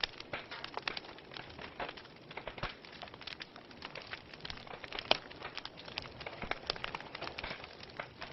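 Wood fire in a fireplace burning with a soft hiss and irregular crackles and pops, one sharper pop about five seconds in.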